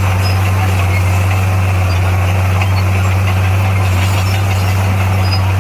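Diesel engine of heavy earthmoving equipment running steadily at constant speed. It gives a deep, even drone that does not rise or fall.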